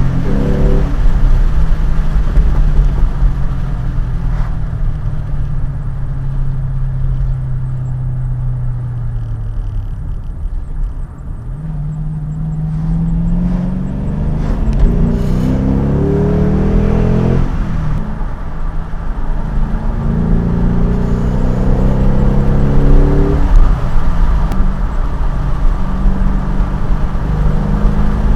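Ford Mustang's engine heard during a drive: it runs steady and slowly drops in pitch, then accelerates hard through the gears. The pitch rises and falls sharply at two upshifts, then climbs again.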